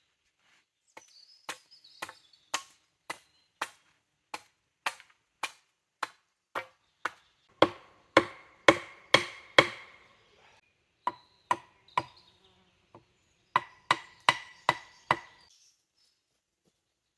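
Wood being chopped: a steady run of sharp strikes, about two a second, loudest in the middle, with two short breaks before a final burst.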